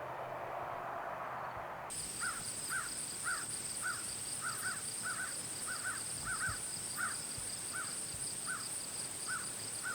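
About two seconds of steady rushing noise that cuts off suddenly. Then a bird calls in short, evenly repeated notes, roughly two a second, over a steady high-pitched whine.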